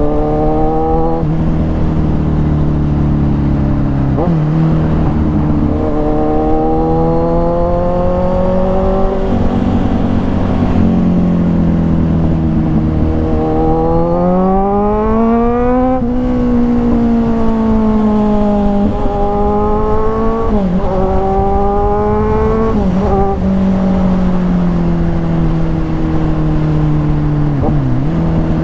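Kawasaki Ninja 1000's inline-four engine through an SC-Project aftermarket exhaust, accelerating through the gears: the pitch climbs again and again, dropping back sharply at each upshift, about seven times.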